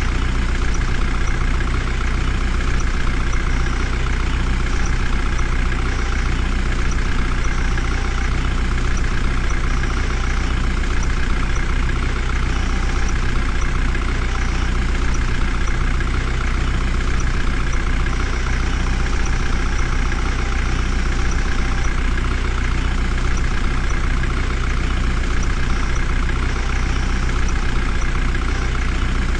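Heavy vehicle engine running steadily at one speed: an even drone with no revving or change in pitch.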